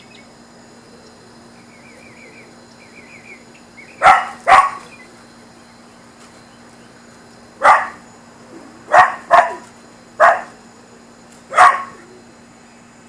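A dog barking: seven short barks, two of them in quick pairs.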